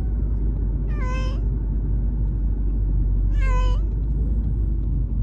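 A cat meowing twice, short calls about two seconds apart, over a steady low rumble like that of a moving car.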